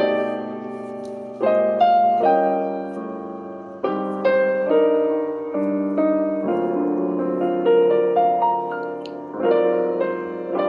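Piano playing a slow introduction of held chords, struck afresh every second or two and left to ring out.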